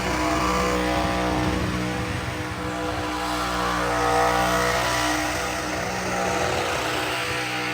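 Truck engine running steadily, swelling briefly louder about four seconds in.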